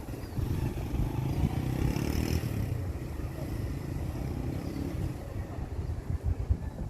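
Street traffic, with a motor vehicle passing about two seconds in over a steady low rumble.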